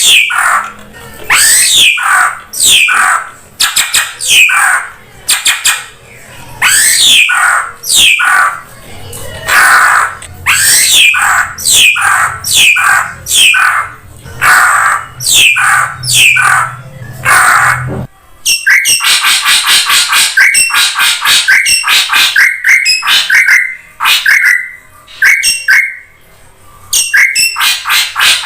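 Drongo calls played as a bird lure: loud, harsh falling notes repeated about once a second, then, about two-thirds through, a fast run of short chattering notes.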